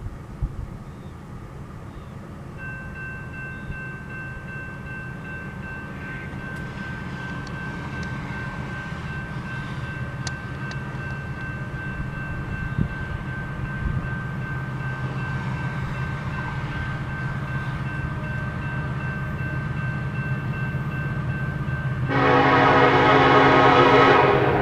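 Approaching diesel freight train led by an EMD SD70ACe locomotive: a low engine rumble growing steadily louder, with a faint steady high whine. About 22 seconds in, a loud locomotive air horn blast of about two and a half seconds.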